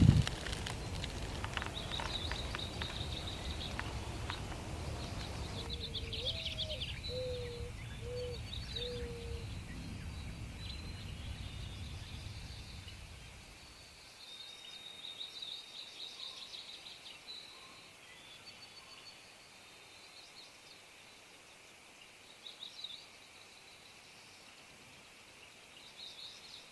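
Woodland birds chirping and trilling, with a short run of four low notes about seven seconds in. A low rumble sits underneath and stops abruptly about halfway through.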